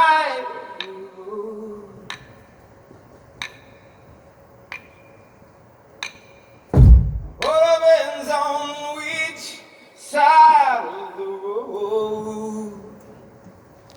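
Male voice singing a cappella with long, wordless held notes. Sharp clicks keep time about every 1.3 seconds through a quieter stretch. A heavy low thump comes about 7 seconds in, and then further sung phrases follow.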